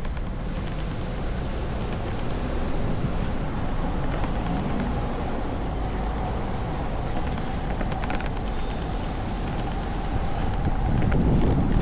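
Steady low rumble of city street ambience, with strong wind on the microphone.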